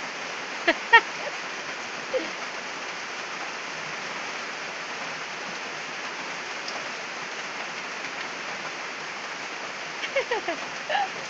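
Steady rain falling, an even hiss without a break. Short voice-like calls sound about a second in and again near the end.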